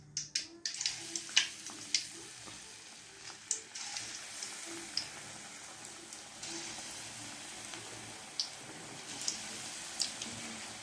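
Ragi pakoda frying in hot oil: a steady sizzle with sharp pops and crackles scattered through.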